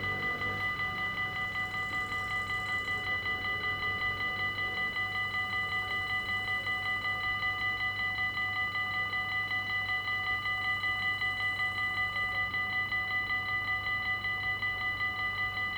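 Railroad crossing warning bell ringing continuously in rapid, evenly spaced strokes at a steady pitch, signalling that a train is approaching or passing and the barriers are down.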